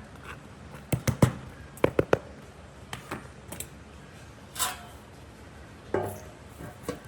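Workshop handling noises: sharp knocks and clicks of tools and parts, in quick groups of three, then single ones, with a short scrape in the middle and a louder knock that rings briefly near the end.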